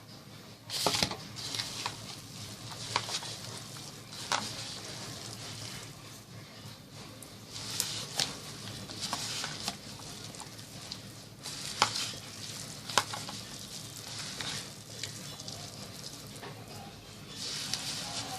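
Prawn, gram-flour and spice mixture being mixed in a bowl: an irregular wet, hissing stirring sound with scattered sharp clicks.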